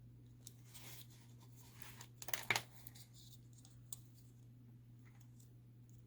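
Faint small clicks and scrapes as the plastic beacon jewels are picked and pried out of a diecast toy fire truck, with a sharper pair of clicks about two and a half seconds in. A steady low hum lies underneath.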